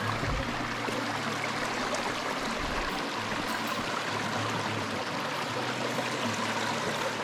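Creek water running steadily over its bed, an even rushing noise.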